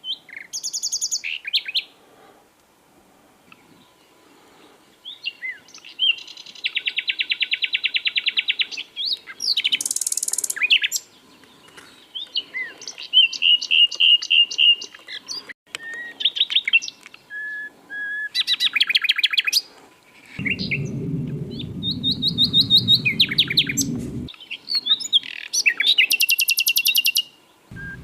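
Common nightingale singing in separate phrases with short pauses between them: fast trills of repeated notes, high buzzy runs and a few soft level whistles. About two-thirds of the way through, a low rumble sits under the song for about four seconds.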